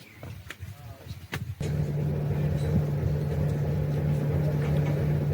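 A few sharp clicks, then about a second and a half in a steady low engine hum starts suddenly and runs on at an even pitch.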